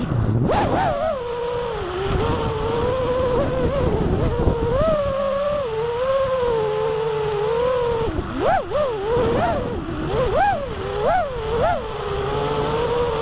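FPV freestyle quadcopter's brushless motors whining under throttle, the pitch wavering as it flies. In the second half come about five quick throttle punches, each a sharp rise and fall in pitch.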